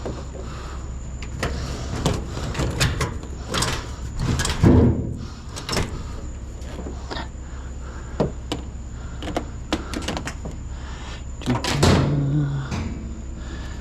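Irregular knocks, clunks and scrapes as a heavy piece of scrap is worked up onto a truck, with two louder thuds about four and a half seconds in and near the end, over a steady low hum.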